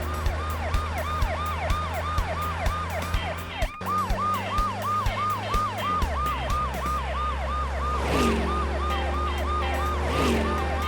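Emergency-vehicle siren sounding in quick repeating downward sweeps, about three a second, over background music with a steady beat.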